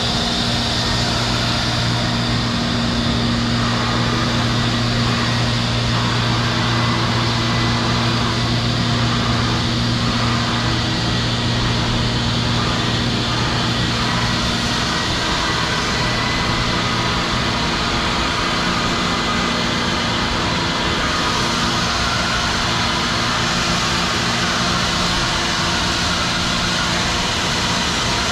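Steady, loud mechanical noise of automatic car wash equipment running, heard from inside the car. A low hum in it drops out about halfway through.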